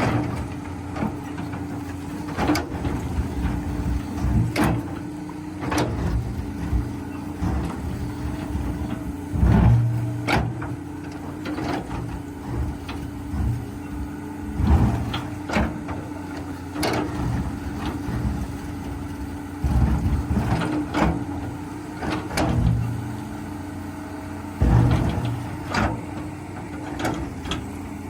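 Caterpillar 320B excavator's six-cylinder diesel engine running steadily under load as the machine digs hard, compacted red gravel. The engine surges every few seconds, and sharp knocks and scrapes come again and again as the bucket bites into the hard material.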